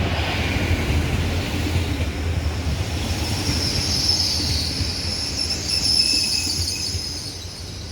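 Passenger train moving through the station: a steady rumble, with a high-pitched metallic squeal building about three seconds in and fading near the end.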